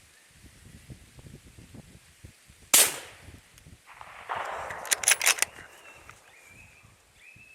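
A single rifle shot from a Tikka bolt-action in 6.5 Creedmoor, sharp and very loud, fired at a coyote 330 yards off. About a second and a half later comes rustling and a quick run of sharp clicks.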